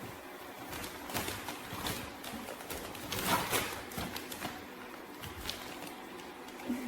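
Shark AI Ultra robot vacuum running, a steady hum with a few light knocks and clatters, the loudest about three seconds in.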